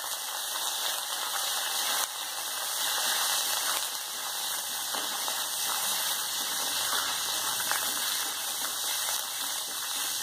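Curry leaves and fenugreek seeds sizzling steadily in hot coconut oil in a clay pot, stirred with a spoon.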